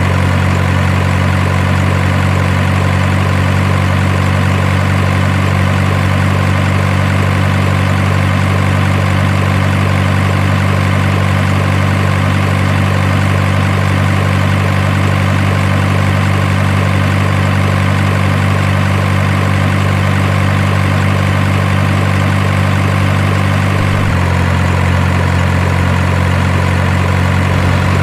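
Truck diesel engine idle sound running steadily at a low pitch, changing slightly in tone about 24 seconds in.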